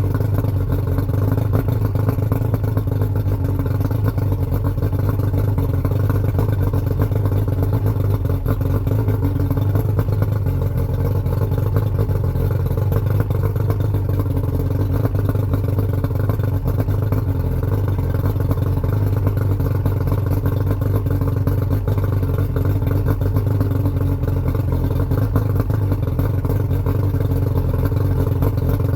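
Yamaha 115 hp V4 two-stroke outboard motor with oil injection running steadily at an even, unchanging speed, warming up after a cold start.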